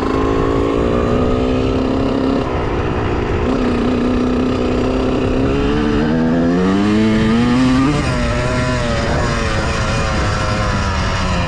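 A Honda CR125R's 125 cc single-cylinder two-stroke engine running while being ridden. It holds a steady pitch, dips, then revs up in a rising climb a little past halfway before falling back and wavering.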